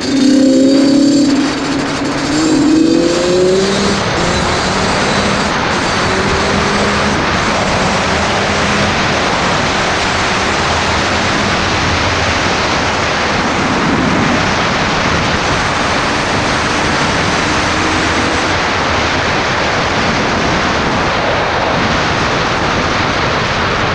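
Motorcycle engine accelerating, its pitch rising through the first few seconds, then a steady loud rushing noise of the ride.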